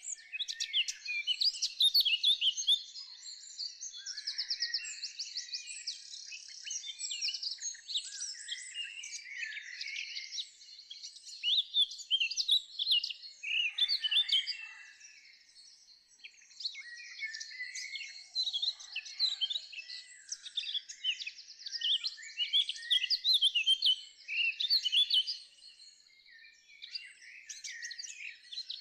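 Several songbirds singing and chirping at once: a dense run of quick, high, rising and falling notes, with a short lull about halfway through.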